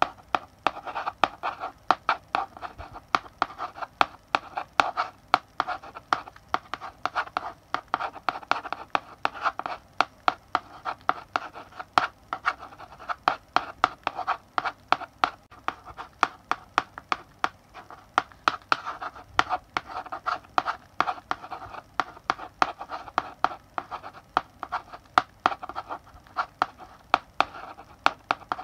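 Chalk writing on a blackboard: a steady run of quick taps and scratching strokes, several a second, as characters are written, with brief pauses between groups of strokes.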